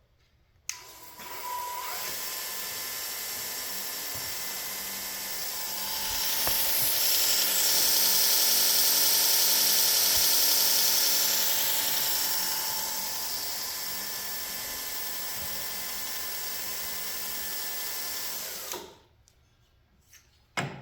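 Homemade variable-speed knife-sharpening belt grinder starting up and running steadily with its belt whirring. About six seconds in it gets louder and higher as the speed is turned up. It drops back near the twelve-second mark and shuts off shortly before the end.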